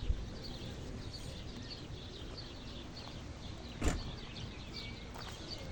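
Small birds chirping over and over over a low steady rumble, with one sharp knock about four seconds in.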